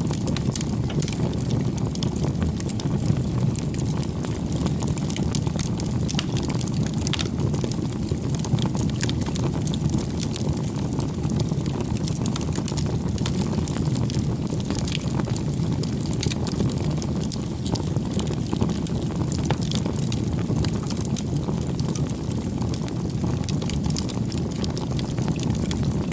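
Wood fire burning: a steady low rush of flames with frequent small crackles and pops of burning wood scattered throughout.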